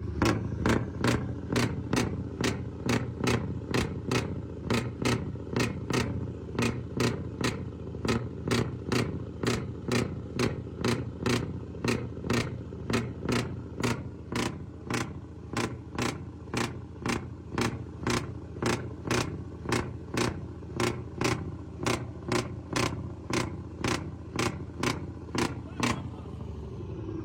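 Scania V8 diesel truck engine idling steadily under a sharp click that repeats evenly a little under twice a second. Near the end the clicking stops and a lower tone falls away.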